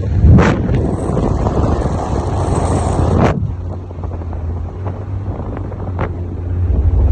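Moving car, with a steady low road rumble and wind buffeting the microphone loudly for about the first three seconds before it drops away.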